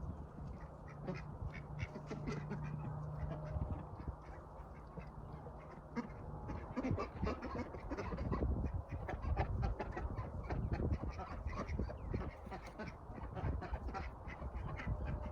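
Ducks quacking, many short calls over and over, getting busier and louder from about halfway through.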